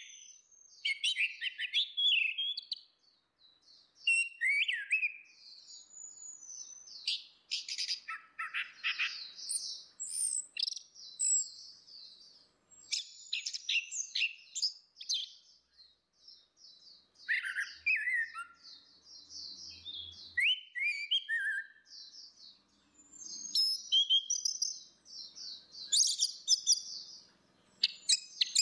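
Orange-headed thrush song: a busy run of varied high chirps, slurred whistles and rapid trills, delivered in phrases with short pauses between them.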